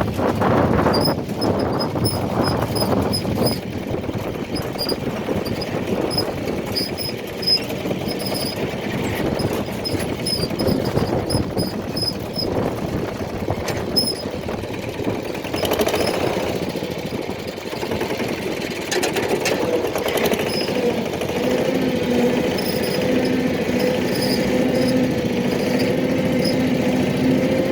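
A motor vehicle's engine running with a rough, rattling noise, with short high squeaks repeating through the first half. About two-thirds of the way in it settles into a steady hum.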